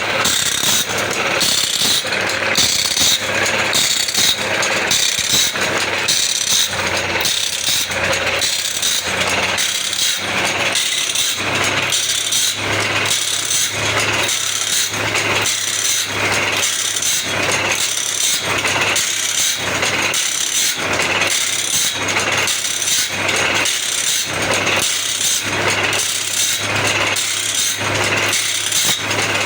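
Automatic band saw blade sharpening machine running, its grinding wheel rasping against one tooth after another in a steady rhythm, a little more than once a second. A steady motor hum runs underneath, stronger from about seven seconds in.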